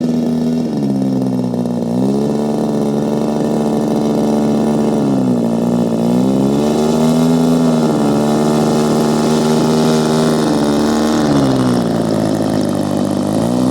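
RC model aircraft engine running loudly, its speed stepping up and down between a lower and a higher setting several times as the throttle is opened and eased back.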